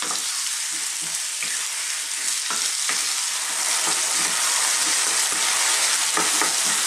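Cubed potatoes and sliced onions sizzling steadily in hot oil in a non-stick pan over above-medium heat, with a wooden spoon scraping and knocking against the pan as they are stirred.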